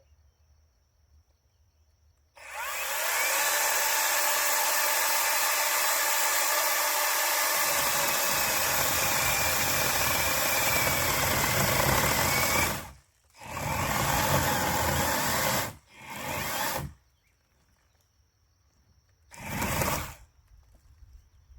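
Handheld angle grinder with a carbide wood-carving disc cutting into a log's saddle notch. It starts about two seconds in and runs for about ten seconds, then comes in three shorter bursts.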